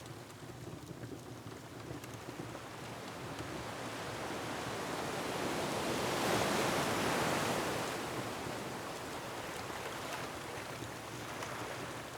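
Ocean wave surging in and breaking, building over a few seconds to a peak near the middle and then ebbing away. Behind it is a steady low rumble of wind and surf, with a few faint crackles from a wood fire.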